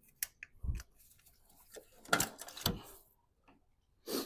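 Scattered knocks and clicks of parts being handled while a radiator and its coolant hoses are worked loose. There are two heavier, duller thumps, one under a second in and one near three seconds, and sharper knocks about two seconds in and at the very end.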